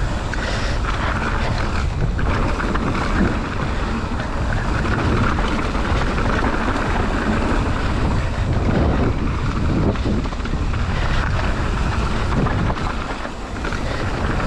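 Wind buffeting the microphone while a mountain bike is ridden along a trail: a steady, loud rumble.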